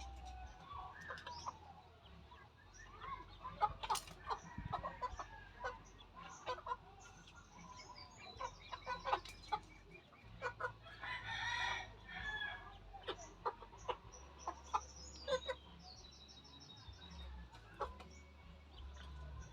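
Domestic chickens clucking, a run of short calls that goes on throughout, with one longer, louder call about eleven seconds in.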